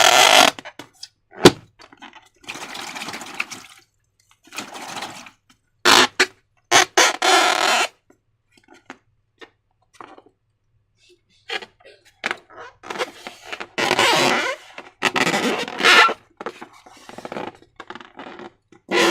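Slime being squished and worked by hand in irregular bursts of noise. There is a sharp click about a second and a half in and a quiet gap of about three seconds near the middle.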